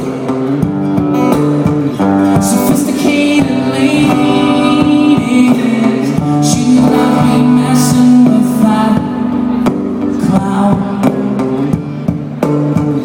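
Live band playing a song: a male voice singing over guitar, with steady drum or percussion hits.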